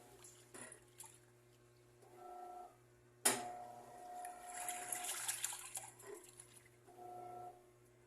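Washing machine in the wash cycle: its motor hums in short bursts as it turns the drum or agitator back and forth, and about three seconds in comes one sharp bang, the banging noise the owner is asking about. Water swishes after the bang.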